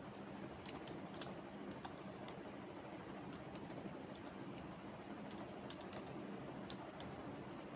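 Computer keyboard typing: irregular keystrokes in short loose runs, sparser near the end, over a steady low background hum.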